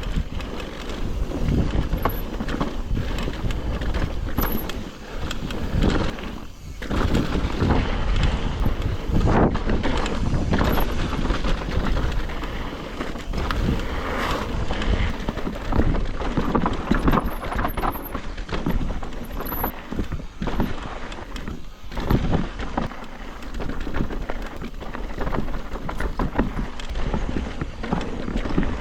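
Mountain bike being ridden over a rough dirt trail: tyres rolling over dirt and rocks, with the chain and frame rattling constantly and wind rushing on the microphone.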